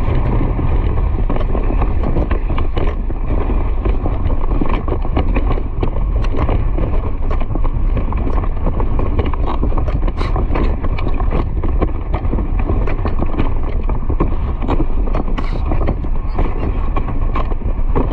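A horse running: a quick, uneven patter of hoofbeats over steady wind rush on the microphone.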